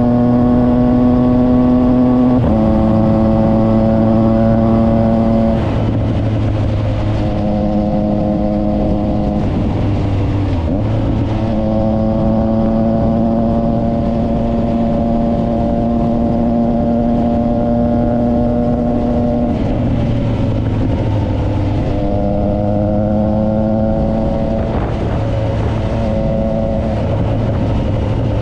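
Triumph Trident 660's inline three-cylinder engine through a Yoshimura exhaust while riding. The engine note holds a steady pitch for a few seconds at a time, then steps up or down to a new one, about ten times.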